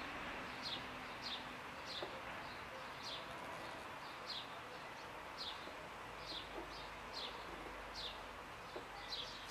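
A songbird repeating a short, high chirp that sweeps downward, a little more than once a second, over a faint steady hiss.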